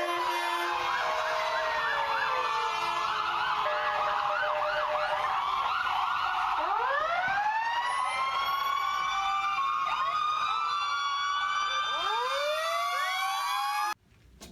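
Several emergency vehicle sirens sounding at once and overlapping: a fast yelping up-and-down pattern at first, giving way about halfway through to long rising and falling wails. The sirens cut off suddenly near the end.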